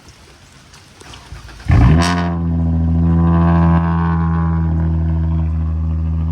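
Straight-piped Dodge SXT's V6 engine cold-started: a short crank, a loud flare as it catches about two seconds in, then a steady fast cold idle that drops a little a couple of seconds later.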